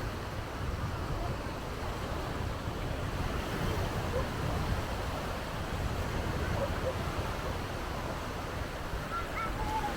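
Sea surf washing onto the beach in a steady rush, with wind buffeting the microphone. Faint, brief voices in the distance near the end.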